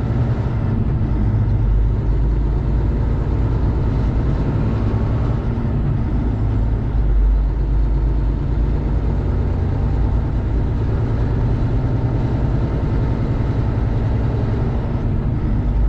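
Semi-truck diesel engine running, heard from inside the cab as a steady low rumble.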